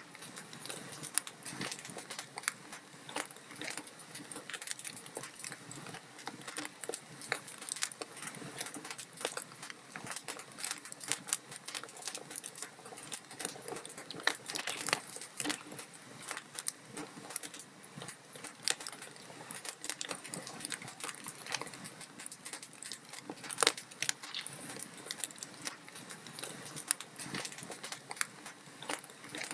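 Log fire in a fireplace crackling, with dense irregular snaps and pops over a soft steady hiss of flame; a few louder pops stand out, one about a second in, another about fourteen seconds in and the sharpest near twenty-four seconds.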